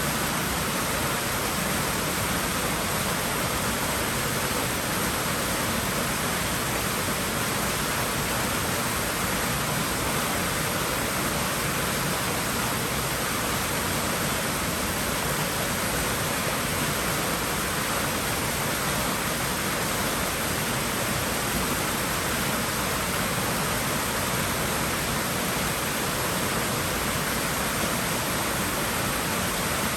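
Swimming-pool water rushing steadily, an even hiss with no breaks or changes.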